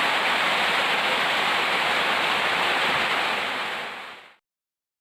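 Steady rushing noise with no distinct tones, fading out and cutting to silence about four seconds in.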